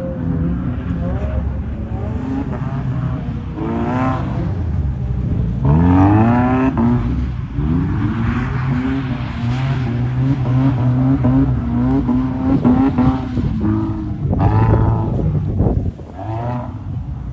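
Subaru Impreza's flat-four engine revving in repeated surges, its pitch climbing sharply several times and holding steady in between.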